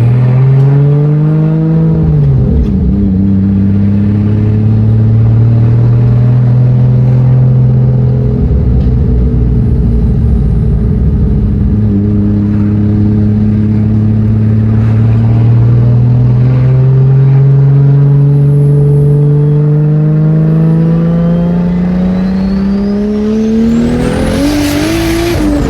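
Toyota 2JZ straight-six in a BMW E46 under way. The engine note drops about two seconds in, holds steady, then climbs slowly. Near the end it rises sharply as the engine revs, with a high whine rising alongside it.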